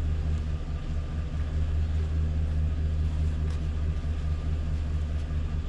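Pickup truck engine running steadily, a constant low hum.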